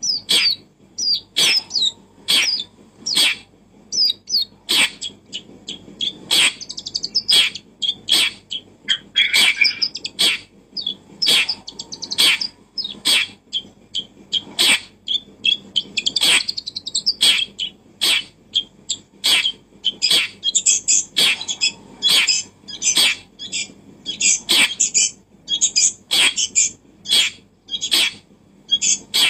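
Bird chirping and twittering in high calls, among many sharp clicks or taps that come about once or twice a second.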